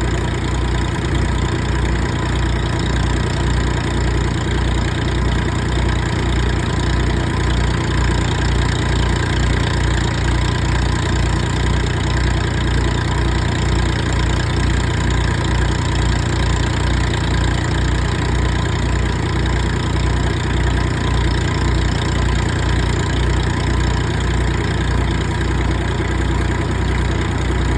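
Massey Ferguson 245 tractor engine idling steadily, with an even low pulsing.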